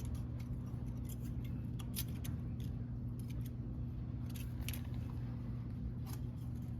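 Scattered light metallic clicks and scrapes of a feeler gauge blade being worked into a valve rocker gap, checking valve clearance, over a steady low hum.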